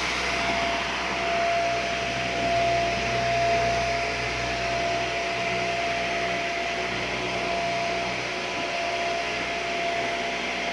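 Samsung VS20T7532T1 cordless stick vacuum running on its minimum power setting: a steady motor whine over the hiss of suction air.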